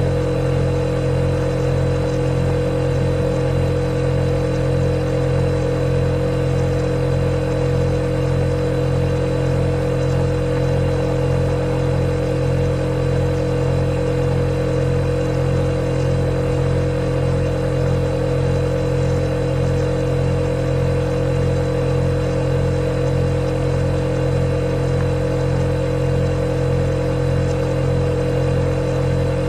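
Refrigerator compressor running with a steady, unchanging hum, including a faint high whine.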